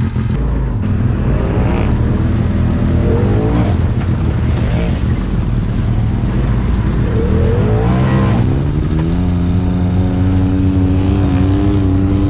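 Side-by-side UTV engine running under load, its pitch wavering, then rising sharply about eight seconds in as it accelerates and holding steady at the higher speed.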